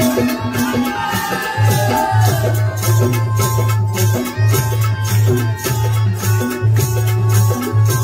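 Folk bhajan music between sung lines: a steady percussion beat with rattling, jingling accompaniment and deep drum strokes. A melody line slides in pitch during the first couple of seconds.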